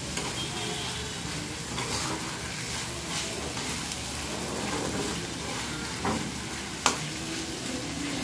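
Potato curry sizzling in a black iron kadai over a high gas flame while a metal spatula stirs and scrapes it, with a few taps on the pan and one sharp knock near the end. The thick gravy is being cooked down to dryness on high heat, the last stage of the dish.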